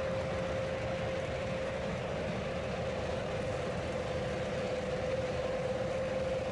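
Steady airliner jet engine noise at idle or taxi power, an even rushing sound with a constant mid-pitched whine through it.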